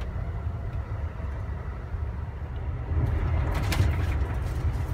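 Amtrak Silver Meteor passenger train in motion, heard from inside the sleeper compartment: a steady low rumble that grows louder about three seconds in, with a few sharp clicks and rattles.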